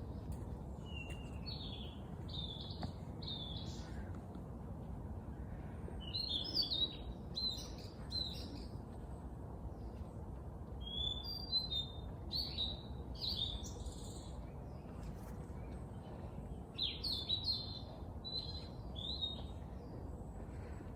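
A songbird singing in short bursts of chirping notes, four phrases spaced a few seconds apart, over a steady low background rumble.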